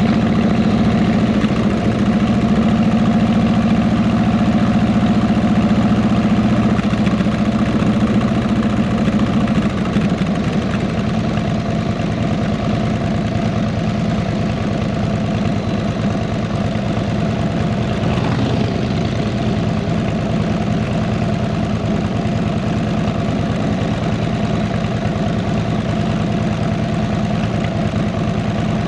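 Harley-Davidson Electra Glide Ultra Classic's V-twin running steadily through 33-inch fishtail exhausts. It eases slightly in level about a third of the way in.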